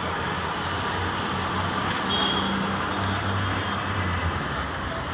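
Steady road traffic noise with a low engine hum that swells and fades.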